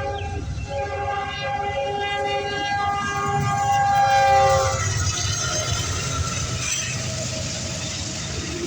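Union Pacific diesel locomotives leading an intermodal train sound a multi-note air horn chord for a grade crossing. The horn is held, loudest just before it cuts off about five seconds in as the lead units pass, then the steady rumble and rail noise of the passing train.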